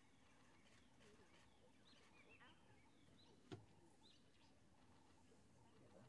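Near silence: faint, distant bird chirps now and then, with one soft click about three and a half seconds in.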